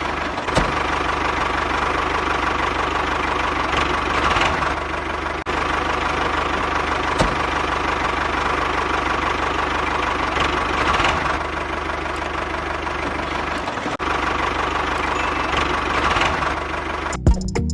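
Tractor engine idling steadily with a knocking beat, swelling a little now and then. Music cuts in right at the end.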